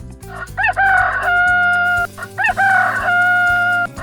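Rooster crowing twice: each crow rises briefly and then holds one long, steady note that cuts off abruptly.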